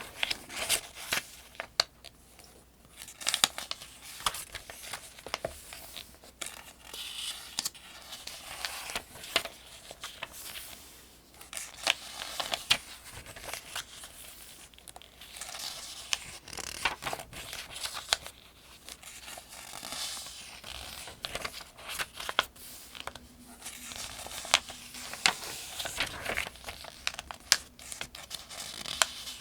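Pages of the Farmers' Almanac, a paperback almanac, being turned one after another: repeated papery rustles and crisp crackles, with a short pause now and then between turns.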